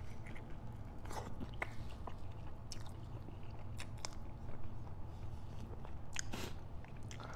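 A person biting into and chewing a cheese-filled pepperoni calzone pizza bite, close to the microphone: a run of short, irregular mouth clicks and smacks, with a few sharper ones about a second in and again around six seconds.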